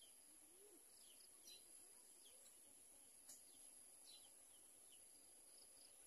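Near silence, with faint, short high chirps from small birds, roughly one a second, over a steady high-pitched whine.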